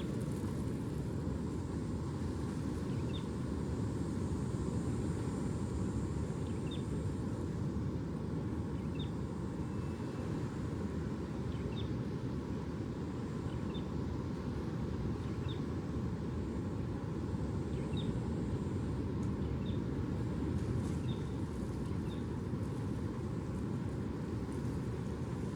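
Steady low outdoor rumble, even in level, with faint short high chirps every second or two.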